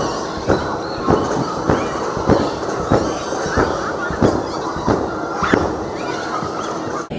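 A loud, even run of thumps, about one every 0.6 seconds over a steady noisy background, cut off suddenly near the end.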